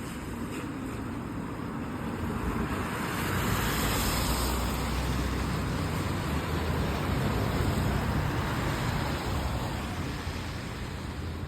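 Motor vehicle passing on a wet road: tyre hiss and engine rumble build up over a couple of seconds, hold, then fade near the end.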